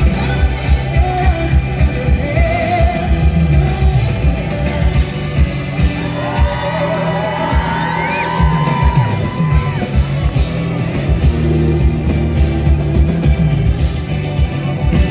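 Live pop concert music over a PA system: a band with a steady drum beat and heavy bass under a singer's vocal line with vibrato.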